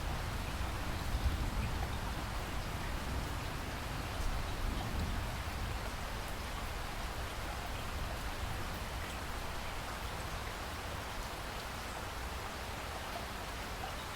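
Steady rain falling, an even hiss. A low rumble of distant thunder fades out over the first few seconds.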